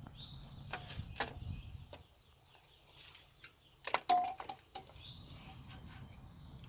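Scattered clicks and clinks of tools and metal parts being handled while A/C condenser piping is connected, busiest about four seconds in. A bird chirps twice in the background, near the start and about five seconds in.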